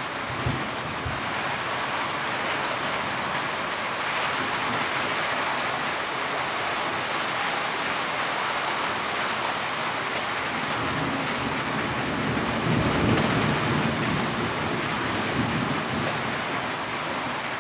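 Heavy rain falling steadily. A low rumble swells for a few seconds about two-thirds of the way in.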